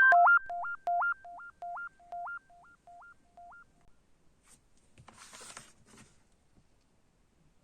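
Short synthesizer jingle: a two-note figure repeating about twice a second, fading away like an echo over the first few seconds. Then, around five seconds in, a brief rustle.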